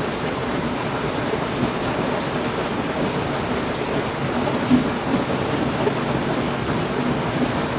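Heavy rain falling steadily, an even dense hiss of drops, with one brief louder tap a little past halfway.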